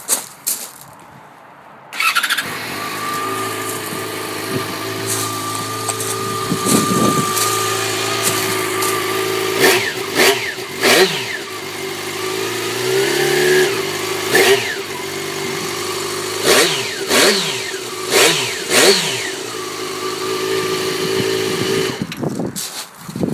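Yamaha XJ6N's inline-four engine starting, idling steadily through its exhaust and being blipped a handful of times with quick revs that rise and fall, then shut off.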